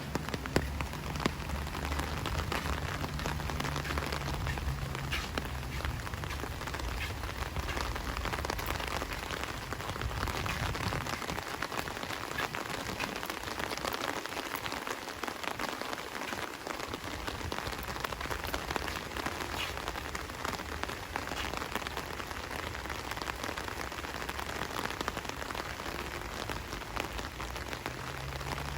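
Steady rain falling, with dense drop hits. A low hum underneath fades out about ten seconds in.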